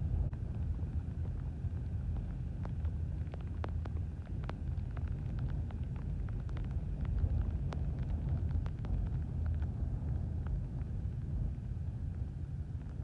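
Typhoon wind buffeting the microphone: a heavy, steady low rumble, with scattered sharp clicks through the middle of the stretch.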